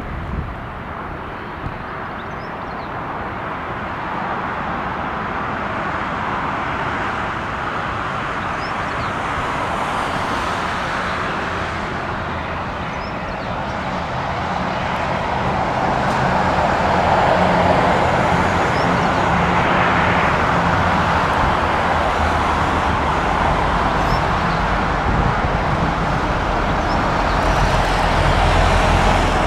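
Jet airliner engines at take-off power: a steady noise that swells to a peak about two-thirds of the way in, with a deep rumble building near the end.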